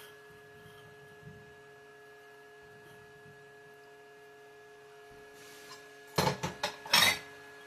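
A faint steady electrical hum. About six seconds in, a short run of loud splashing and rustling strokes as cherry tomatoes are rinsed at the kitchen sink.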